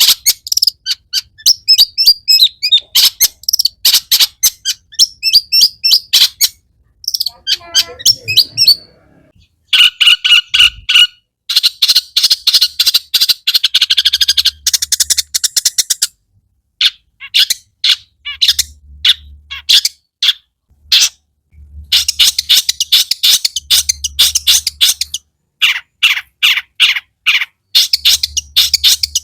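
Long-tailed shrike singing a fast, loud stream of short, sharp chattering notes in runs broken by brief pauses. The runs are packed with mimicked calls of other birds.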